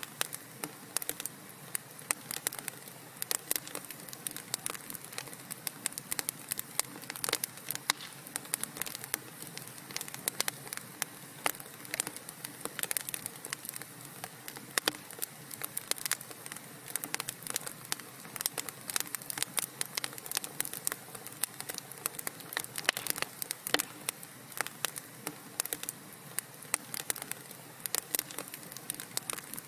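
Wood fire burning in a fireplace, crackling with dense, irregular pops and snaps over a steady low hiss.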